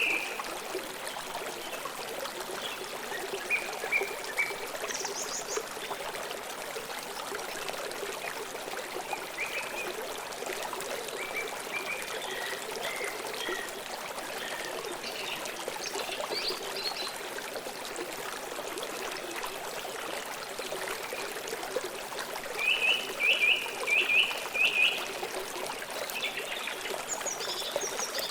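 River water flowing steadily, with songbirds chirping on and off over it; the loudest run of birdsong is a quick series of repeated chirps a little over three-quarters of the way through.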